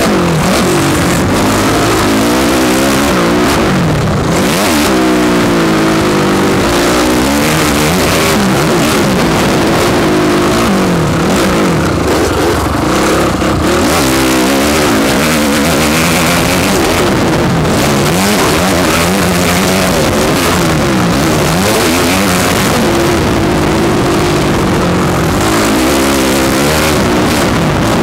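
Motocross bike engine heard from the rider's helmet, revving up and dropping back again and again as the throttle opens and closes around the track, over a constant rush of wind and noise.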